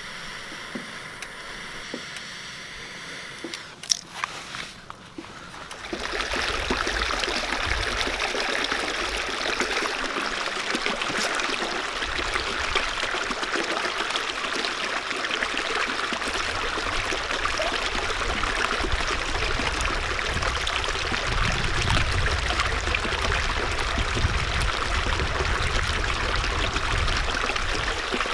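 Running water, a steady rushing that starts about six seconds in after a few light clicks and knocks.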